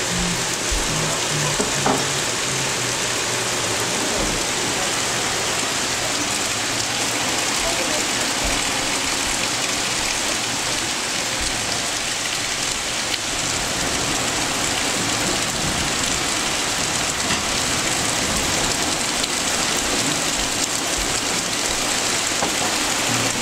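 Heavy rain pouring steadily onto trees and a wooden deck, an even, unbroken hiss.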